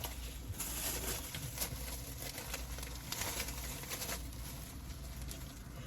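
Quiet eating sounds: faint chewing and handling noises with soft rustles, over a low steady hum.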